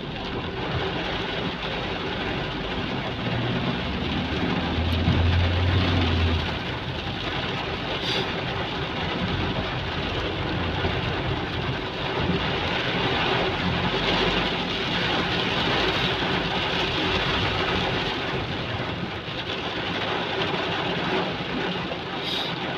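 Heavy rain falling in a steady, even hiss, with a low rumble about four to six seconds in.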